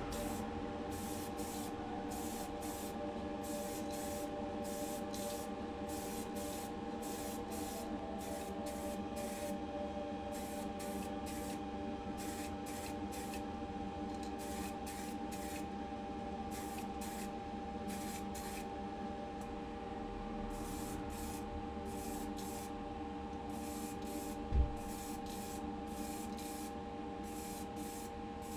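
Paint spray hissing in short, repeated bursts, about two a second, as primer, colour and clear coats go onto a diecast car body, over a steady hum. A single low thump comes near the three-quarter mark.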